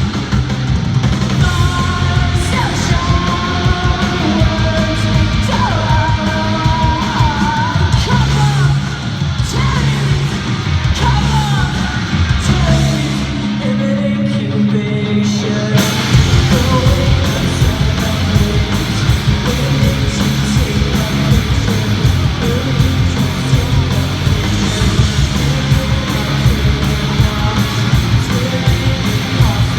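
Live punk rock band with yelled, screamed vocals over distorted electric guitar, bass and drums. About halfway through the cymbals and upper parts thin out for a few seconds over the low bass and guitar, then the full band comes crashing back in.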